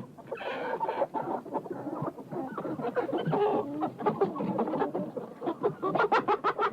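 Chickens clucking, several birds calling over one another in short, quick calls that grow louder and busier near the end.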